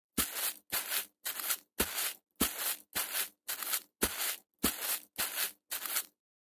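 Cartoon footstep sound effects: eleven scuffing steps at an even walking pace, about two a second, which stop about six seconds in.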